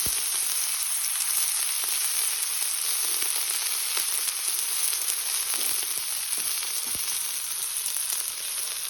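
Steak searing in beef tallow over a very hot campfire: a steady sizzling hiss with a few sharp pops.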